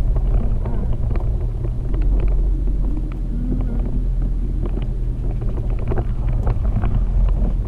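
Jeep TJ Wrangler driving along a forest track: a steady low engine drone, with frequent short knocks and rattles over the rough ground.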